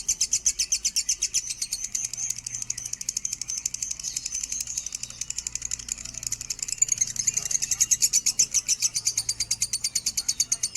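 Lovebird singing a long, unbroken chattering song of rapid high-pitched notes, about eight a second.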